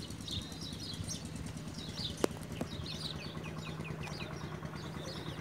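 Small birds chirping over and over in short, quick notes, above a steady low hum. A single sharp click sounds a little over two seconds in.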